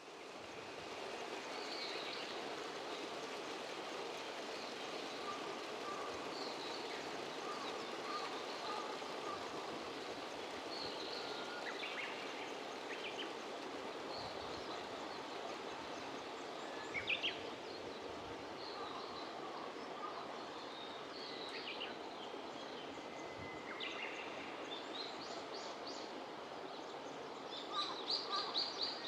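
Birds calling and chirping on and off over a steady outdoor background hiss, with louder bursts of calls about seventeen seconds in and again near the end.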